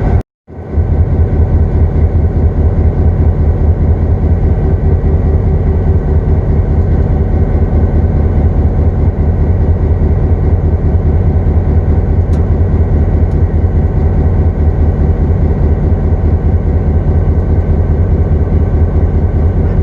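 Diesel locomotive engine running steadily, a loud, even rumble with a constant drone and no change in speed. The sound cuts out completely for a split second just after the start.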